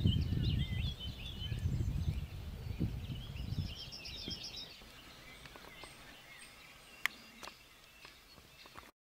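Small birds chirping and singing, with a short rapid trill about four seconds in, over a low uneven rumble that fades after about four seconds. A single click near the end.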